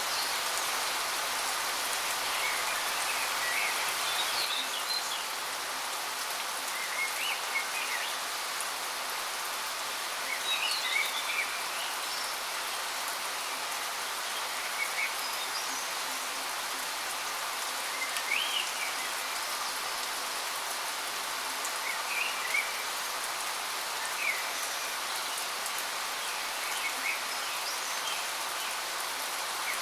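Waterfall: a steady rush of falling water, with a bird giving short chirps every couple of seconds over it.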